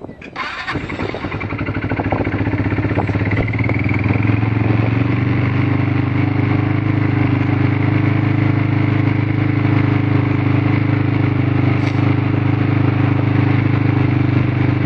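Four-wheeler (ATV) engine starting on choke just after the start, growing louder over the first two seconds and then running steadily: a cold start.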